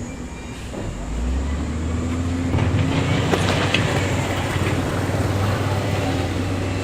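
Heavy diesel earthmoving machine working under load. Its engine drone grows louder about a second in and again at about two and a half seconds, with scattered metallic clanks and rattles over the next couple of seconds.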